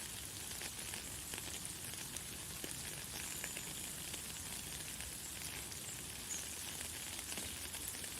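Light, fine rain falling steadily: an even hiss dotted with many small drop ticks.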